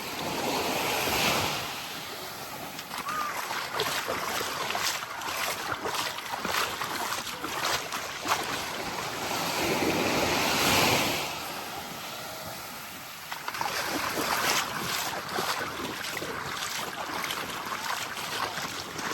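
Small waves breaking and washing up a sandy shore, swelling twice, about a second in and again around ten seconds in, with wind and scattered short clicks.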